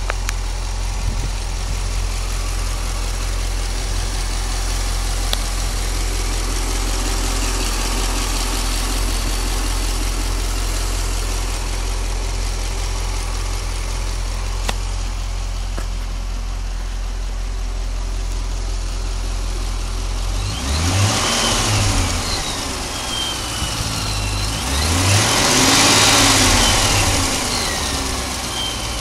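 Chevrolet Corvette C6's 6.2-litre LS3 V8 idling steadily, then revved twice in the last third, each rev rising and falling back to idle. The owner reports a strange noise from the engine that he cannot identify.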